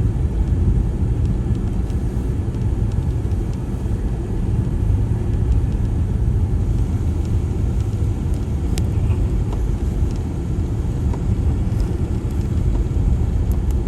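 Steady low rumble of engine and road noise inside an Audi Quattro's cabin while driving.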